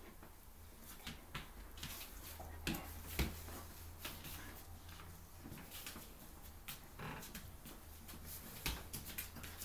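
A chow chow and a Samoyed play-fighting: scattered short clicks, scuffles and knocks, the loudest about three seconds in, over a steady low hum.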